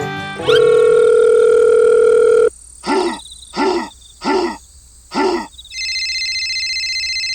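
Telephone call sound effects: a steady dial tone for about two seconds, then four short evenly spaced tones, then a steady electronic ringing tone.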